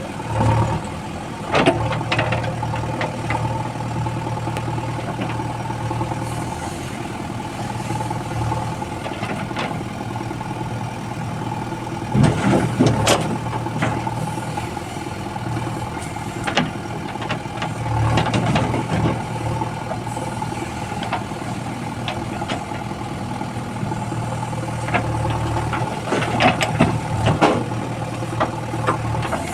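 Backhoe loader's diesel engine running steadily, its note easing and swelling at times, with scattered knocks and clanks, the loudest about twelve seconds in and again near the end.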